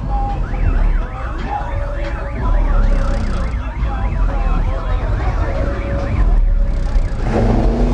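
A siren yelping, its pitch sweeping quickly up and down, over a heavy deep bass. Near the end an engine revs up.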